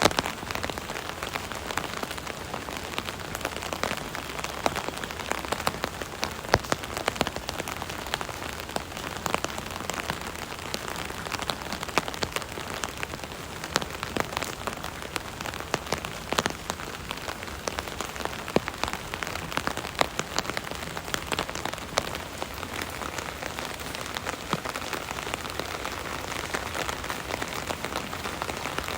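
Rain pattering on an umbrella: a steady hiss of rain with many sharp drop taps on the canopy.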